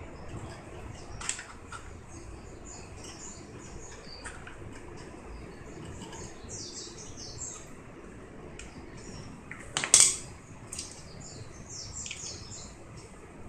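Small birds chirping over and over in quick, high notes, over a low steady background hum. A short sharp click comes about a second in, and a louder sharp knock about ten seconds in.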